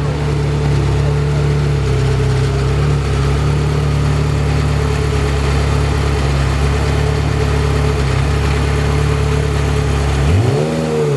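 Ferrari F355's V8 idling steadily, with one quick throttle blip about ten seconds in that rises and falls back within a second.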